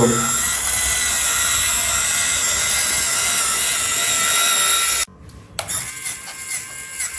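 Small electric motor and gearbox of a toy RC tractor running with a steady high whine, which cuts off suddenly about five seconds in. A quieter, uneven mechanical whirring follows.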